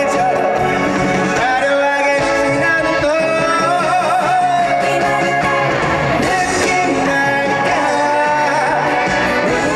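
A male singer performing a Korean trot song live over loud, upbeat band backing with guitar, his wavering vocal melody carried through the PA.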